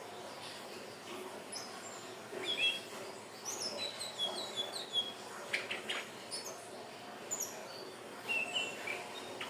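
Indigo flycatcher (sikatan ninon) singing: quick runs of thin, high twittering notes in short phrases with brief gaps between them.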